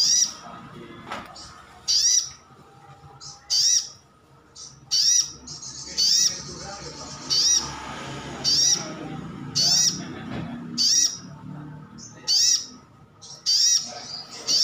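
Sunbird (sogon / sogok ontong) calling: a short, sharp, high note repeated about every second and a half.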